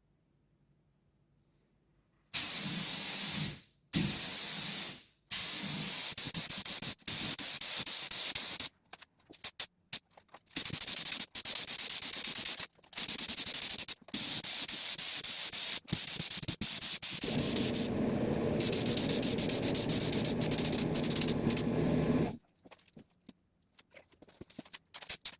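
Clear coat being sprayed from an aerosol spray can: a series of hissing bursts, each a second or a few seconds long, with short breaks between them, starting about two seconds in. For about five seconds near the end a deeper rushing sound runs under the hiss; then only faint clicks remain.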